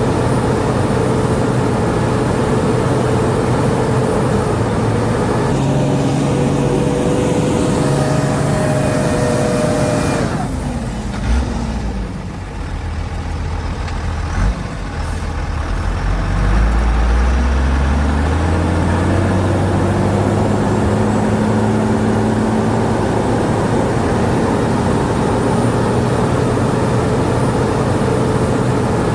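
Heavy diesel engine of earth-moving machinery running under load, dropping to low revs about ten seconds in with a couple of knocks, then revving back up about sixteen seconds in and running steadily again.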